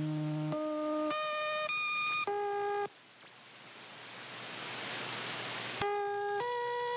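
Shortwave numbers-station interval tune: a sequence of short, steady electronic tones stepping up and down in pitch. About three seconds in the tune breaks off into radio static that swells up, then a click, and the tones resume near the end.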